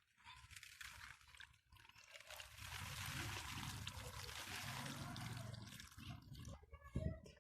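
Liquid poured steadily into a container of pickling vegetables, building up about two and a half seconds in and tailing off near six seconds, then a short thump near the end.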